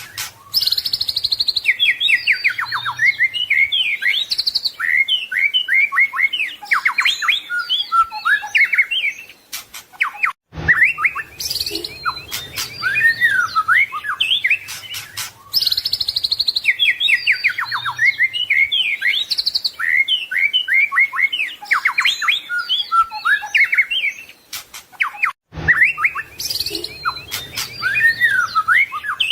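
White-rumped shama (murai batu) singing a long, varied song of rapid whistled phrases, trills and chirps, packed with imitated calls of other birds. The song breaks off briefly twice, and the same passage repeats, as in a looped recording.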